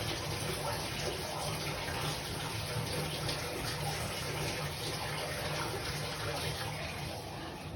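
Tap water running steadily, a constant even rush of water.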